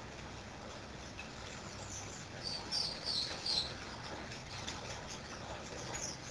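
Faint bird chirps: a quick run of short, high calls around the middle, over a low steady background hiss.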